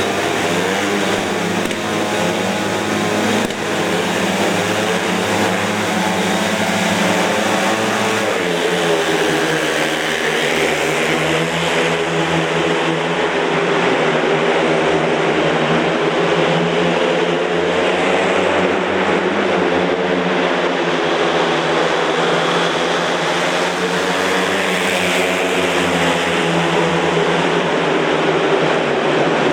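Speedway motorcycles racing: several single-cylinder 500 cc methanol engines running hard together, their pitch rising and falling as they ride.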